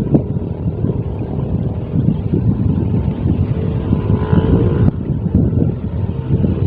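Strong wind buffeting the microphone: an uneven, gusting low rumble.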